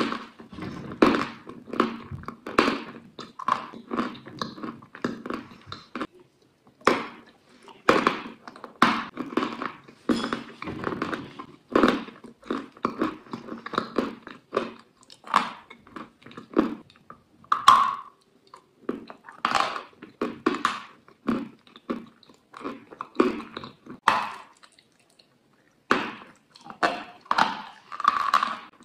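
Chewing and biting mouth sounds: quick, irregular smacks and bites, with a short silent gap about six seconds in and another near the end.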